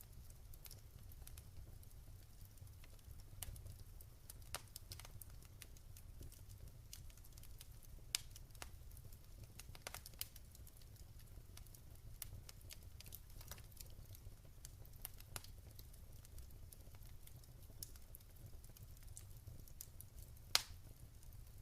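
Wood fire in a fireplace crackling, with irregular sharp pops and snaps and a steady low rumble under them; one loud pop comes near the end.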